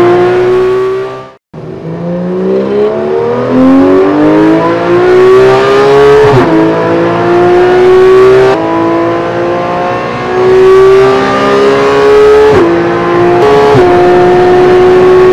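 Porsche 911 GT3 (991) naturally aspirated flat-six under hard acceleration, heard from inside the cabin. The sound cuts out completely for a moment about a second and a half in. Then the engine note climbs steadily in pitch and drops sharply with quick upshifts about six seconds in and twice near the end, holding high revs.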